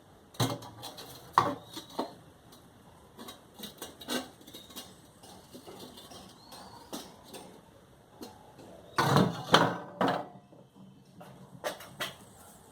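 Irregular metal clanks and knocks of steel pieces being handled, with a quick cluster of louder knocks about nine seconds in.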